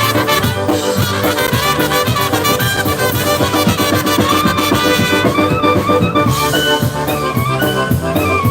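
A live polka band playing a tune, with brass horns carrying the melody over a steady drum-and-bass beat.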